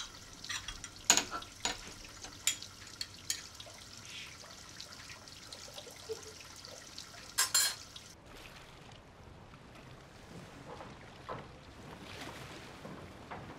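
Water trickling and running, with scattered sharp clicks and knocks over the first eight seconds or so; after that only a quieter steady hiss remains.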